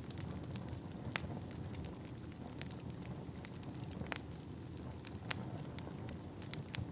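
Wood fire burning in a fireplace: a steady low rumble of the flames with irregular sharp crackles and pops from the burning logs, one of the louder pops about a second in.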